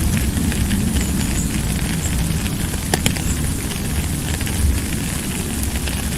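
Steady heavy rain, a dense patter of drops over a low rumble, with one sharper drop or tick about three seconds in.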